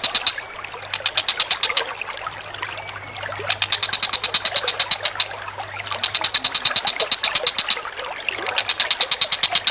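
A bird's rapid, rattling call, fast strokes of about ten a second, repeated in four bouts of one to two seconds each, over the steady trickle of running water.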